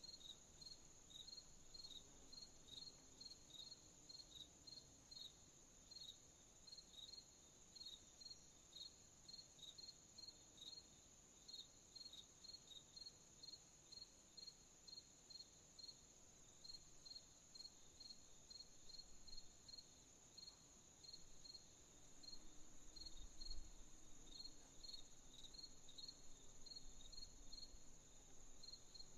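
Night crickets chirping: a steady run of short chirps, a few a second, over a continuous high-pitched insect trill. A faint low rumble comes briefly about four fifths of the way through.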